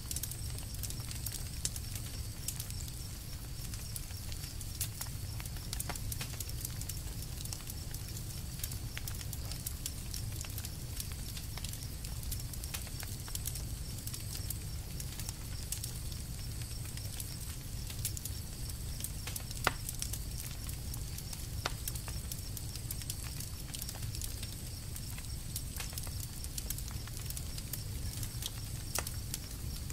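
Campfire crackling: a steady low rumble of burning wood with many small snaps and ticks, and a few sharper pops.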